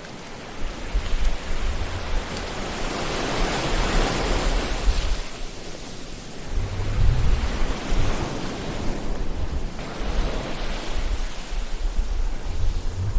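Ocean surf washing in and receding, the wash swelling and fading about three times.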